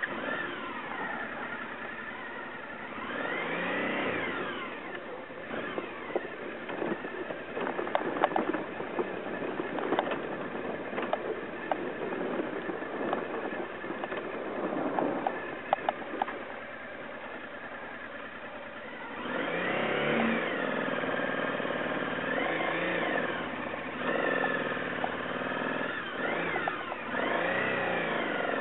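Adventure motorcycle engine revving up and down at low speed as the bike climbs a steep rocky track, with sharp knocks from the wheels over stones. About two-thirds of the way in, the engine gets louder, with repeated rising and falling revs.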